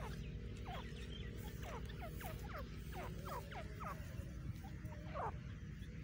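Birds calling in a quick series of short chirps, each falling sharply in pitch, about two or three a second, over a low steady background rumble.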